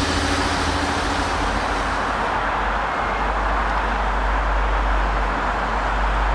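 Heritage railway train running on the line with a steady rumble. An engine's steady hum fades out in the first second or two.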